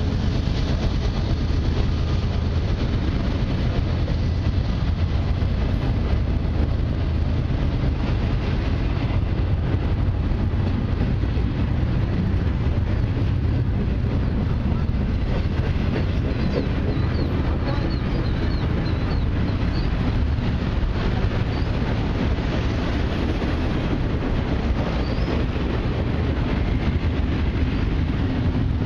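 Canadian Pacific intermodal freight train rolling past close by: a steady, unbroken rumble of cars and wheels on the rails.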